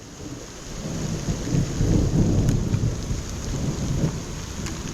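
Thunder rumbling, swelling about two seconds in and then fading, over steady rain, with a few sharp ticks.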